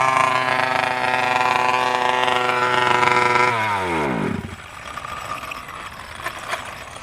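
Petrol two-stroke engine of an FG two-wheel-drive RC stadium truck running steadily, then sagging in pitch and dying about three and a half seconds in as it runs out of fuel. Faint clicks and clatter follow.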